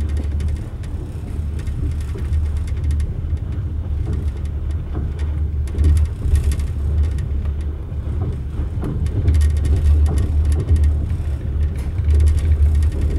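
A passenger train running along the track, heard from inside the carriage: a steady, loud low rumble with many brief irregular clicks and rattles.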